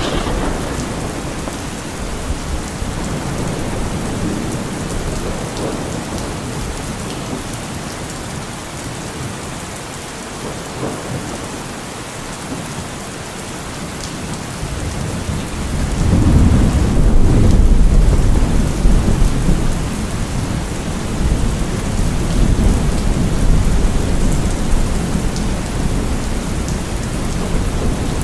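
Steady heavy rain with thunder. A long low rumble of thunder swells up about halfway through, is loudest for a few seconds, then keeps rolling under the rain.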